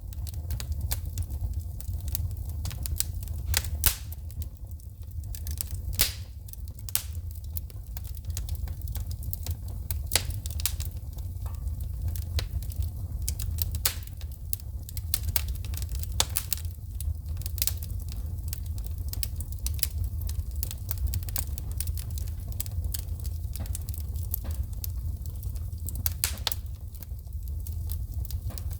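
Wood fire in a fireplace crackling, with frequent irregular sharp snaps and pops as sparks shoot from the burning logs, over a steady low rumble.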